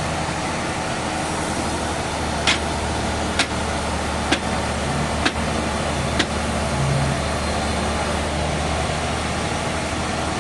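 Sawmill machinery running with a steady low drone. Five sharp knocks sound about a second apart in the middle.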